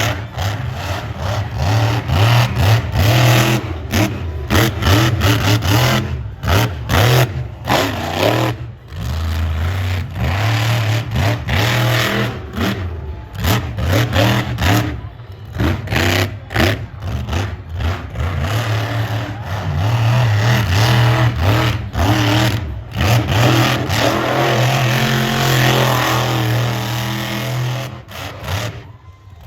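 Monster truck engine revving hard and unevenly, the throttle snapping off and back on again and again during a run, with a short lull near the end.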